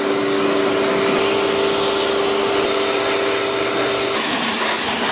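Pressure washer running steadily, a motor hum under the hiss of the spray, washing down a dirt bike. The hum drops away briefly near the end.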